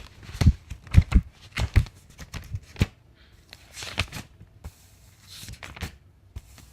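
Pages of a book being flipped through: a quick run of papery flicks with soft thuds in the first three seconds, then a few slower swishing page turns.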